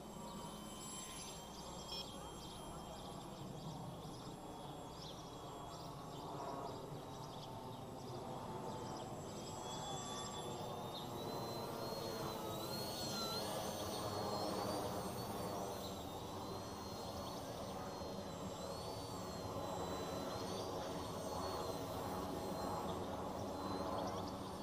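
FPV quadcopter's electric motors buzzing in flight, a thin high whine wavering up and down with throttle changes from about ten seconds in, over a low rush of wind noise.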